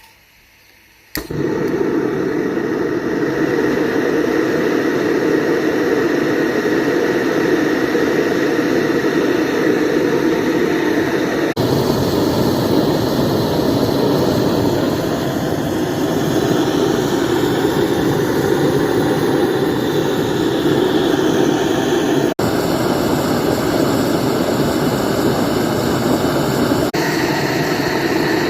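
Propane gas forge burner starting suddenly about a second in, then running with a loud, steady rushing noise.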